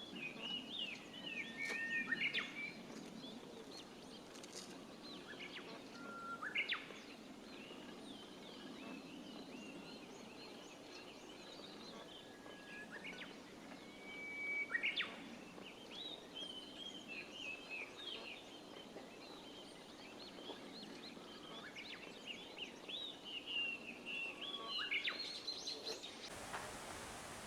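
Japanese bush warbler (uguisu) singing its 'hoh-hokekyo' song four times, each a held whistle followed by a quick rising flourish, among the chirps of other small birds. About a second before the end the birdsong cuts off to a steady hiss.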